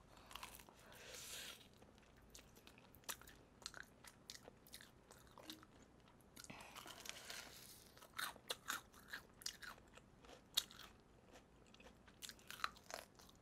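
Crisp-battered fried chicken being bitten and chewed: a faint run of sharp crunches and crackles, growing denser in the second half.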